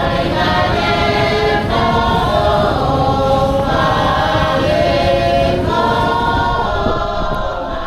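A choir singing held chords in several voices, the chords changing every second or so.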